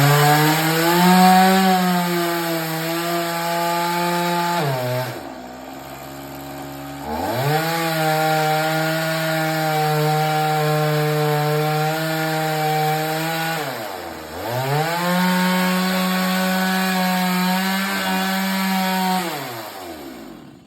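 Two-stroke chainsaw held at high revs while cutting wood, in three long runs. It drops back toward idle about five seconds in and again briefly about fourteen seconds in, then winds down at the end.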